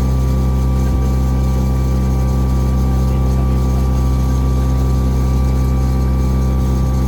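Tour boat's engine running steadily, a low, even drone that does not change.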